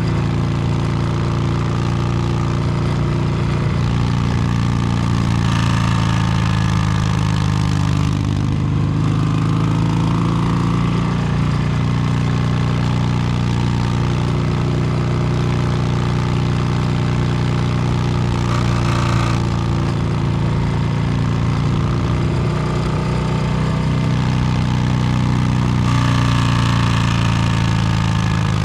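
2022 Harley-Davidson Low Rider S Milwaukee-Eight 117 V-twin running under way through an S&S Superstreet 2-into-1 exhaust. The engine note rises and falls a few times, with a dip about eight seconds in and another change near the end.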